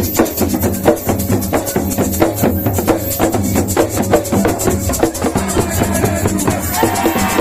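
Loud live band music driven by dense, fast drumming and shaker over a steady bass line, with a held higher note coming in near the end.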